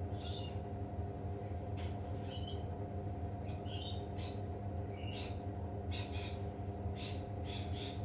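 Birds giving about ten short, high chirps, spaced irregularly, over a steady low mechanical hum.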